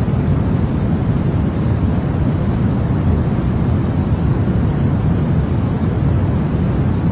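Continuous baby-sleep noise sold as white noise, steady and unchanging. It is deep and rumbly, with most of its weight low down and only a soft hiss above.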